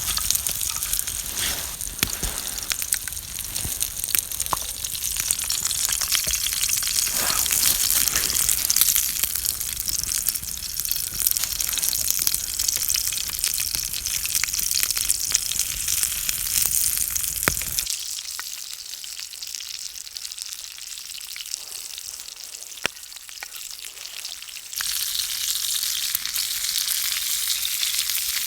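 Food frying in a pan: a steady sizzle with small crackles and pops. The sizzle turns quieter for several seconds past the middle, then comes back at full strength.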